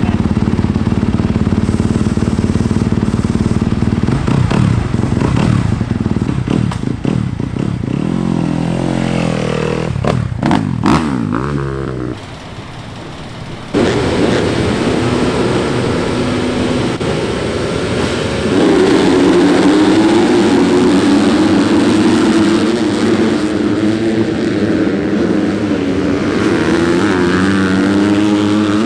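Motocross bike engines running and revving, the pitch rising and falling as they are throttled up and down. The sound drops off for a second or two about 12 seconds in, then comes back abruptly and louder.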